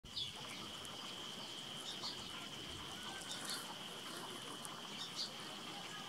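Short, high bird chirps every second or two, over a steady high-pitched whine.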